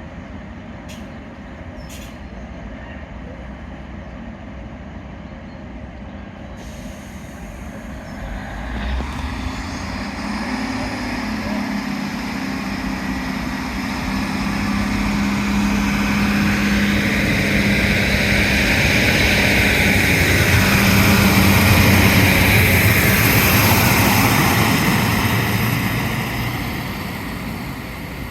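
A train passing through the station. Its rumble and hiss build for about ten seconds, carry a steady low drone at their loudest, and then die away near the end.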